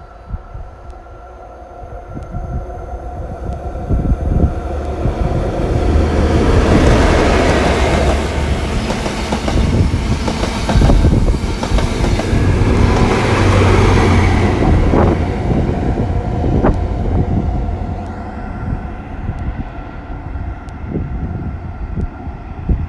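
GWR 'Castle' short-formed HST with its Class 43 diesel power cars passing through the station: the engine and wheel noise builds over a few seconds, stays loud for about ten seconds with clicks of the wheels over rail joints, then fades as it moves away.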